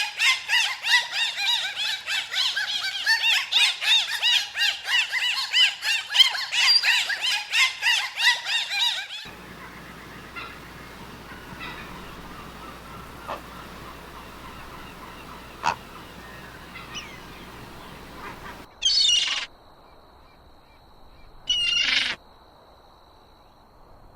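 A flock of birds calling, dense rapid overlapping calls for about nine seconds, cut off abruptly. Then a quieter stretch with a few faint clicks, and near the end two separate loud calls a couple of seconds apart.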